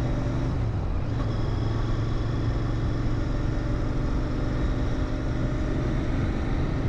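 Royal Enfield Interceptor 650's 648 cc parallel-twin engine running steadily through its stock mufflers, its low hum shifting slightly about a second in.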